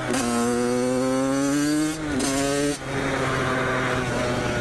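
Dirt bike engine pulling under throttle, its pitch climbing slowly, with brief breaks about two seconds in and near three seconds like gear shifts. After the breaks it settles into a lower, rougher run.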